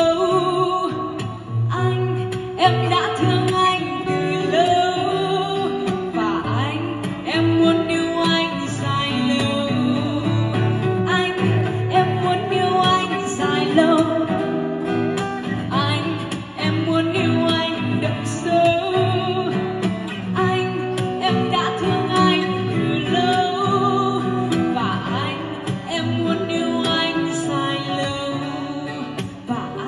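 Amplified acoustic-electric guitar music through a stage sound system, with a sliding, wavering melody line over the chords.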